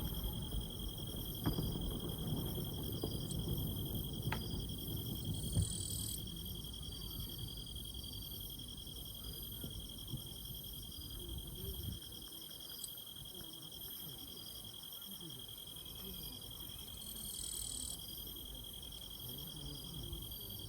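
Several insects chirping at once in steady, rhythmic trills, over a low background rumble that eases after about six seconds.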